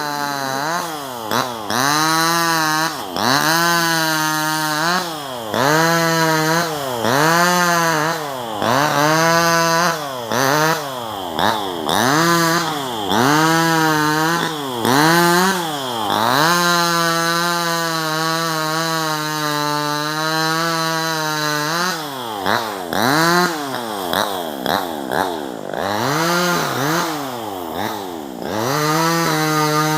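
Two-stroke 258 top-handle chainsaw revving up and down over and over, about once a second, with a longer steady run at high revs in the middle, while cutting tree branches.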